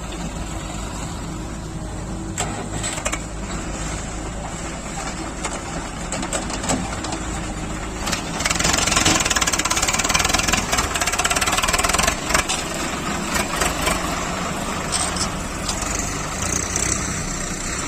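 Tractor-type engine running steadily, growing louder and harsher from about eight seconds in, then easing off toward the end.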